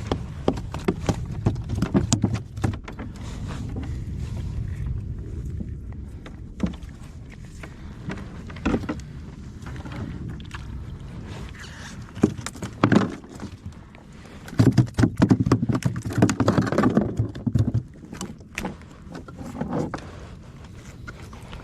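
A fishing kayak on the sea: a steady low rumble of water and wind, with many short knocks and clatters of gear against the hull, busiest about three quarters of the way through.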